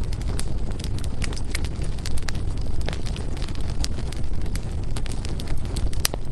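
Wood fire burning: a steady low rush of the flames with frequent sharp crackles and pops from the burning firewood, one louder pop near the end.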